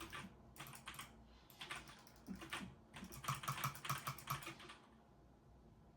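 Typing on a computer keyboard: quick keystrokes in bursts of about a second each, with a pause near the end.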